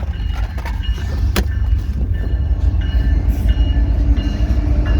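Fast freight train passing, a heavy rumble of wheels on rail that grows louder, with faint steady ringing tones above it and one sharp click a little over a second in.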